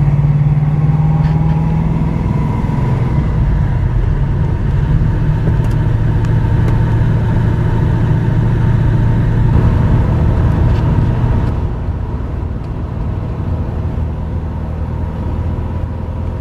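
1969 Chevrolet Camaro SS's 350 cubic-inch V8 running steadily with road noise as the car drives along, the sound easing off somewhat about three quarters of the way through.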